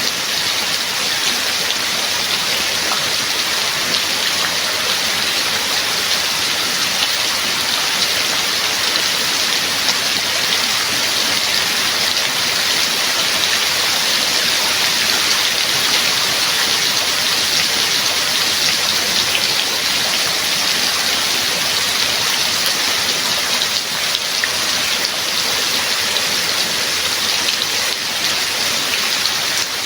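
Steady rain: a dense, even hiss of falling rain, with fine patter of individual drops striking a surface.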